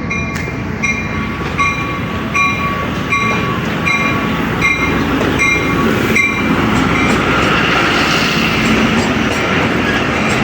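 Jaffar Express coming into the station at speed behind a ZCU20 diesel-electric locomotive: the rumble and wheel noise of the passing train grow louder about six seconds in. For the first six seconds a short beep repeats a little more than once a second.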